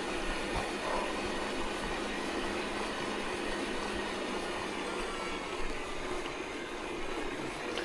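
Steady rumble and rattle of tyres rolling over a gravel forest road, with wind noise.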